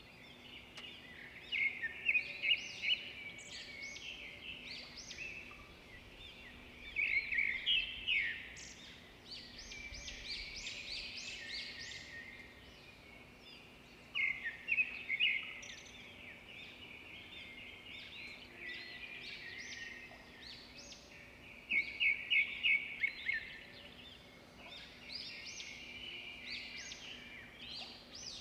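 Small birds chirping in recurring bursts of rapid high notes every several seconds, over a faint steady hum.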